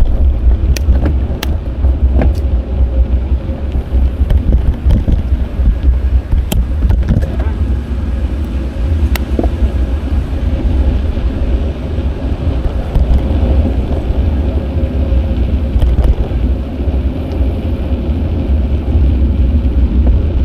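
Wind rushing over an action camera's microphone during a city bicycle ride: a steady low rumble, with street traffic noise and scattered light clicks and rattles.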